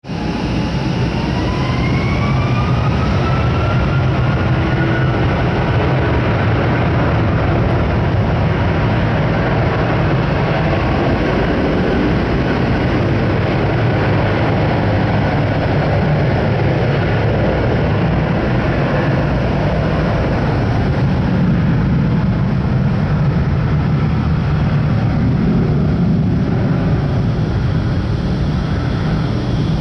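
Boeing 757-300 jet engines at takeoff power: a whine rising in pitch over the first few seconds, then a loud, steady roar with a deep rumble.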